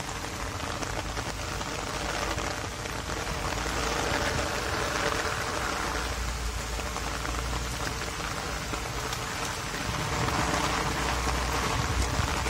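Heavy thunderstorm rain pouring steadily onto flooded paving, with the wind gusting and rumbling louder twice, about halfway through and near the end.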